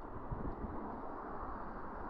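Steady outdoor background noise with an uneven low rumble, like wind on the microphone or distant traffic.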